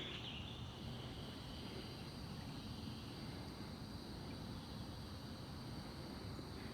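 Faint outdoor background: a steady, high insect chorus over a low, even hiss.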